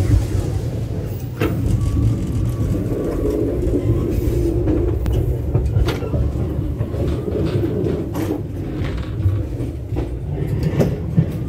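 Inside a moving Majapahit passenger train: a steady low rumble of the running coaches, with a few short knocks and rattles through the gangway between cars.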